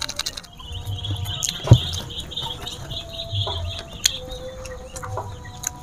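Bird chirping in a high, fast trill for about three seconds, with a single sharp knock partway through.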